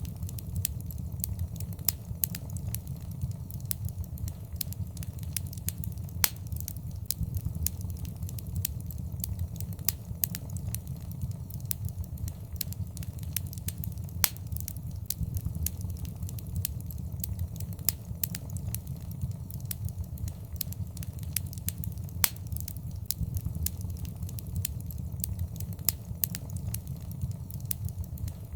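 Wood fire in a fireplace crackling, with irregular sharp pops, a few louder ones, over a steady low rumble of the flames.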